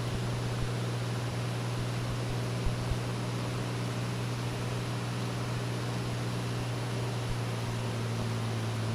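Cessna 206 piston engine and propeller droning steadily at approach power on final approach, heard inside the cockpit over a steady rush of air; the pitch dips slightly near the end.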